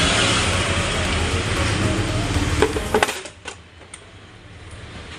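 Steady hiss-like noise, then a few sharp metallic clinks of transmission parts being handled about two and a half to three seconds in, after which the sound drops away abruptly.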